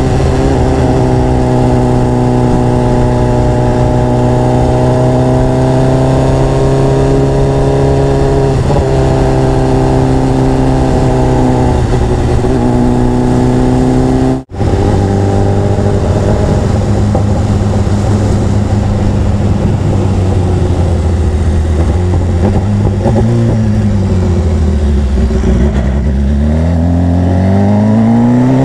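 Sport motorcycle engine running under way over wind noise, holding a steady note for about half the time. After a split-second dropout the engine note sits lower, sags, and then climbs sharply near the end as the bike accelerates.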